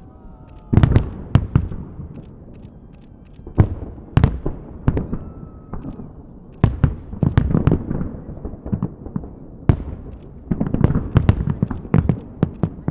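Fireworks salute going off: irregular sharp bangs of bursting shells, each with a trailing echo, some coming in quick clusters. A denser run of bangs comes about ten to eleven seconds in.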